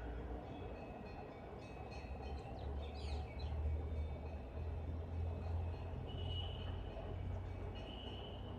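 Rosy starlings giving squeaky chirps and whistled calls over a steady low rumble. A burst of quick rising and falling squeaks comes about three seconds in, and there are longer held notes later on.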